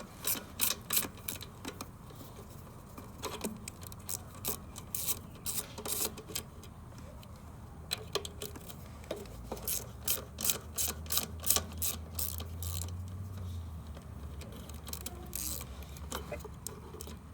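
Hand ratchet clicking in short runs of quick ticks as bolts are backed out to free the carburettor linkage on a small mower engine.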